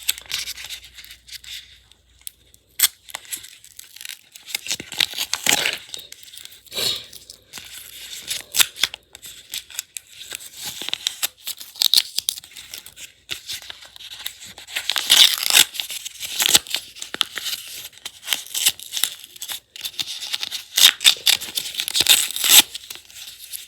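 A homemade blind bag being torn and crinkled open by hand, a struggle of irregular rustles and tearing bursts, with louder rips about five seconds in, around fifteen seconds and near the end.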